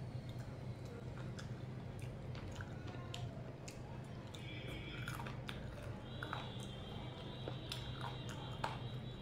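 A person chewing and biting at food close to the microphone, with many small wet clicks and smacks of the mouth. A steady low hum runs underneath.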